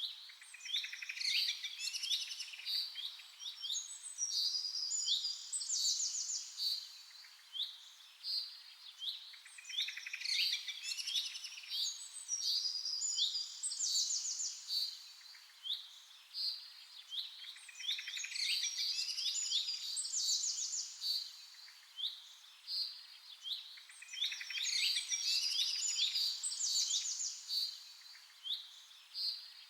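Songbirds chirping and singing: short high chirps that drop in pitch, mixed with fast trills. The same stretch of song repeats about every eight seconds, as in a looped recording.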